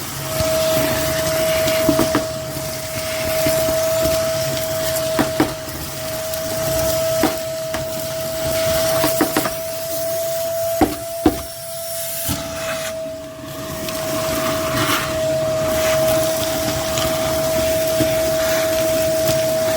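Shop vacuum with a cyclone separator running and sucking up shed-floor debris: a steady motor whine with sharp clicks and rattles as bits of rubbish hit the hose. About halfway through, the level drops briefly as the vacuum gets a bit clogged on wet sand, then recovers.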